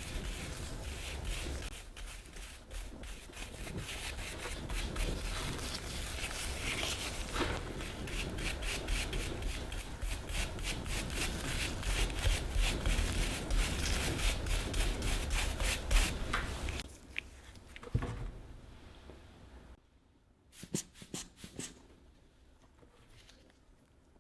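Quick, repeated back-and-forth scrubbing strokes on a small toy figure. They stop about 17 seconds in, leaving a quieter stretch with a few faint taps.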